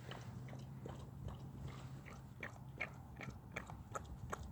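Dog eating a pup cup of whipped cream: a run of faint, irregular wet smacks and licks as he chows down. A faint low hum sits under it for the first three seconds.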